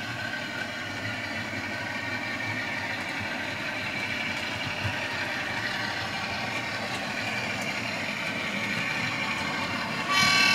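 OO-gauge model diesel locomotive running on the track, its DCC sound decoder playing a diesel engine note through the small onboard speaker over the rumble of the wheels and motor, slowly getting a little louder. Music with violin comes in near the end.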